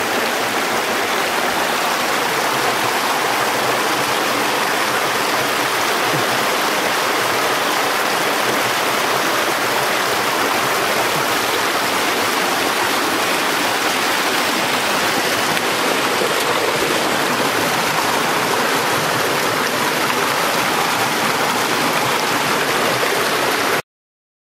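River water rushing, a steady loud rush without letup; it cuts off abruptly near the end.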